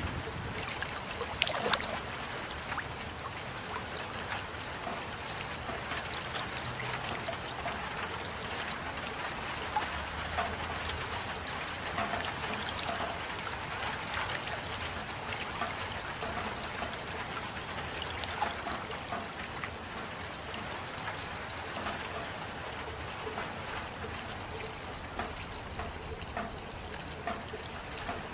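Steady rain falling, with many small drops ticking and water trickling. A few louder drop hits come about a second and a half in.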